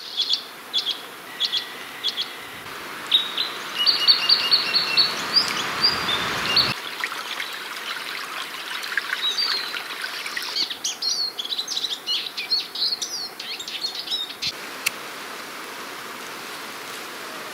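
Small songbirds chirping and trilling, many short repeated calls. A rushing noise sits under the calls for a few seconds and cuts off suddenly about seven seconds in; the calls thin out and stop near the end, leaving a steady faint hiss.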